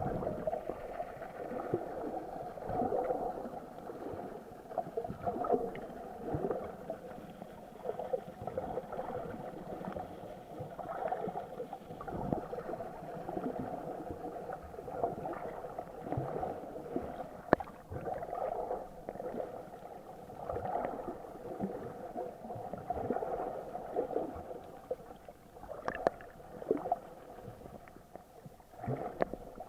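Muffled water sloshing and gurgling around an SJ4000 action camera held in the sea while snorkeling, rising and falling unevenly. A few sharp clicks stand out, one about two thirds of the way in and two more near the end.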